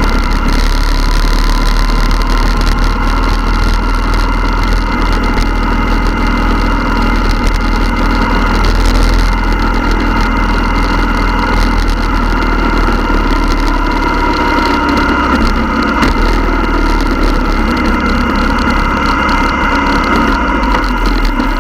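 Motorcycle engine running at a steady pace, with a constant low rumble.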